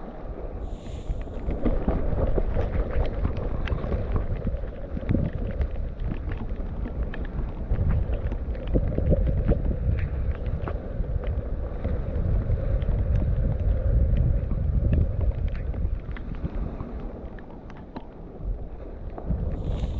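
Mountain bike riding fast down a wet, muddy trail: wind buffeting the camera microphone over steady tyre noise, with frequent sharp rattles and clacks from the bike over rough ground.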